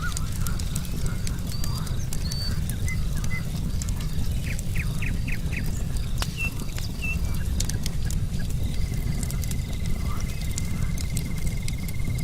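Wood fire crackling with sharp pops over a steady low rumble. Birds give short high chirps, including a quick run of five notes about halfway through, and an even high trill sets in a few seconds before the end.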